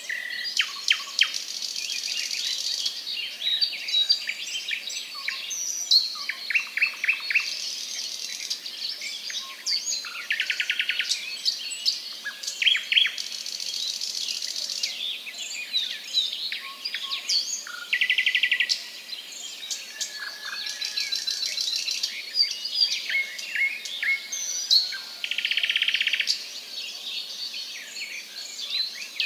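A busy chorus of small birds: quick repeated chirps and whistles throughout, with a few rapid buzzy trills each lasting about a second.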